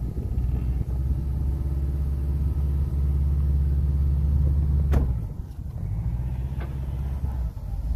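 Vehicle engine running steadily with a low hum, with a single sharp knock about five seconds in, after which the engine sounds quieter.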